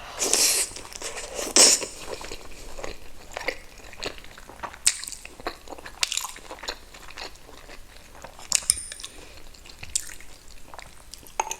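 A person biting and chewing food: irregular crunches and wet mouth clicks, with two louder bites in the first two seconds.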